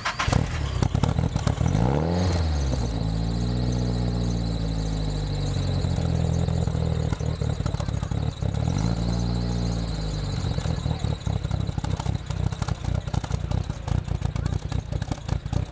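Turbocharged engine of a modified Nissan Silvia S14 idling, blipped twice, about two seconds in and about nine seconds in, the revs rising and falling back each time. A steady high whine runs above the engine after the first blip.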